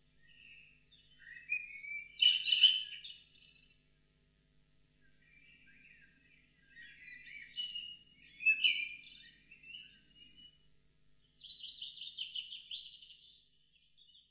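Bird song: bursts of varied chirping phrases, and a fast trill a little over two seconds long near the end.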